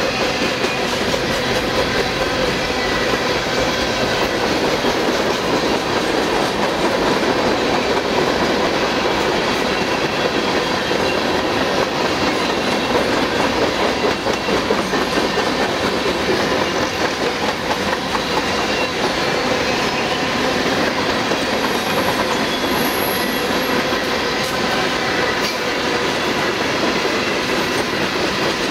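Freight train cars rolling past close by: a steady, loud rumble and clatter of steel wheels on the rails, with faint steady squealing tones from the wheels.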